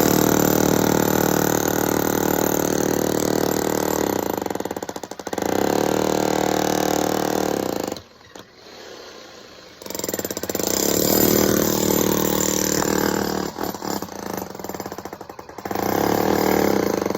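Jackhammer running in long bursts, with a brief pause about five seconds in and a longer one of about two seconds around eight seconds in.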